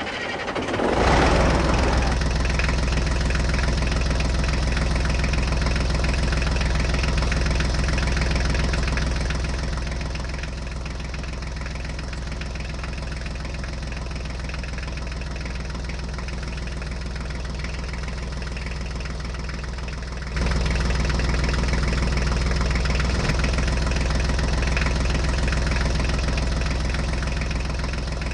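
An engine running steadily at idle, an even low hum, with a brief louder, rougher stretch in the first couple of seconds; the sound jumps up abruptly about two-thirds of the way through.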